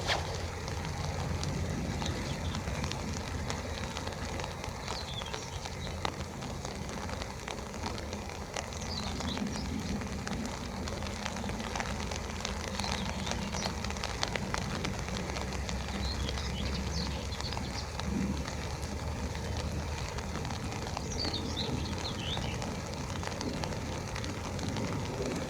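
Rain pattering on an umbrella as a steady crackle of small drops, over a low steady rumble, with a few short bird chirps now and then.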